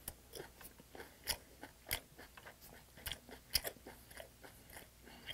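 A person chewing a mouthful of cooked sea hare with the mouth closed: soft, wet, irregular chewing clicks, about two or three a second.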